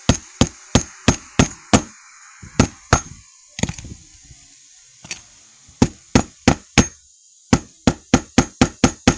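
Hammer driving roofing nails into an asphalt shingle: runs of sharp strikes about three a second, each with a short metallic ring, broken by a pause of about two seconds in the middle.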